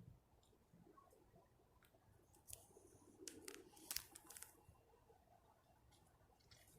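Near silence: faint room tone, with a few brief, sharp clicks and crackles in the middle, the loudest about four seconds in.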